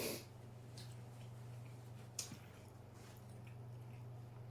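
Close-miked eating sounds: a few soft, sudden wet clicks and smacks of chewing, the loudest a little over two seconds in, over a steady low electrical hum.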